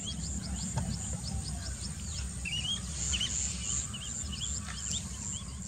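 Outdoor ambience with small birds chirping: many short upward-sweeping notes, repeated at irregular spacing, over a steady high pulsing buzz and a low rumble.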